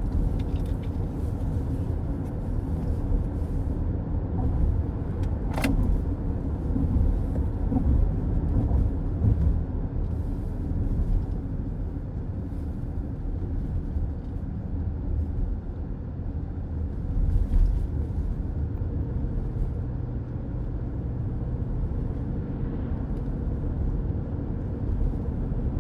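Steady low road and tyre rumble of a car cruising on the highway, heard inside the cabin. There is one sharp click about six seconds in.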